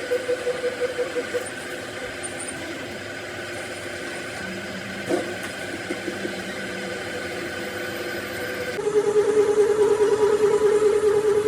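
Metalworking machinery running: a steady hum that pulses about five times a second, quieter in the middle, then a louder, slightly lower-pitched pulsing hum from about nine seconds in.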